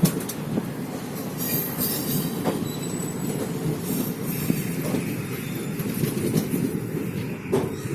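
Coaches of an arriving passenger express rolling slowly along the platform, with a steady rumble and irregular wheel knocks over the rail joints. A faint high wheel squeal enters about halfway through.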